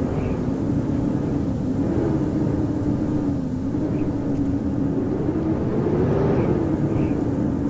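Howling blizzard wind: a steady rush with a low moaning tone that wavers slowly up and down in pitch.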